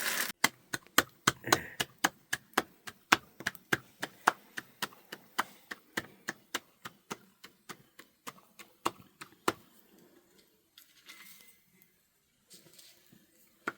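Knife chopping on a cutting board in quick, even strokes, about four a second, stopping about nine and a half seconds in.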